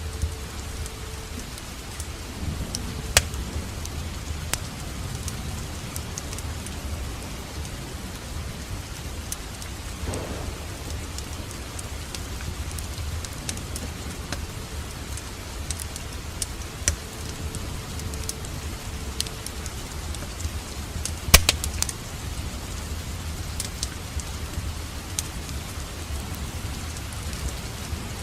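Wood fire crackling in a fireplace: scattered sharp pops and snaps over a low steady rumble of burning logs, the loudest pop about two-thirds of the way through.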